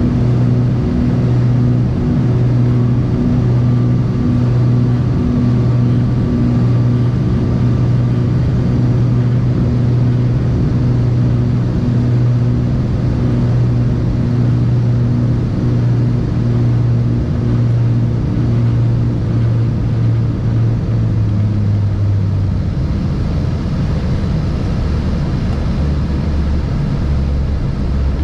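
Cessna 402's twin piston engines and propellers droning inside the cockpit, a steady low hum with a slow pulsing beat. About 22 seconds in the drone drops to a lower pitch.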